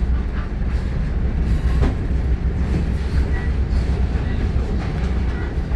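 Steady low rumble of a passenger railroad car running along the track, with an occasional faint knock from the running gear.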